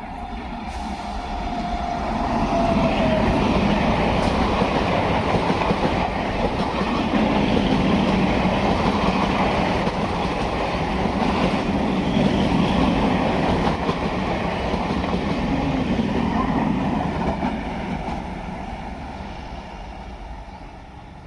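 A train passing close by, its rumble and wheel clatter on the rails. It swells over the first few seconds, holds loud for about fifteen seconds, then fades away.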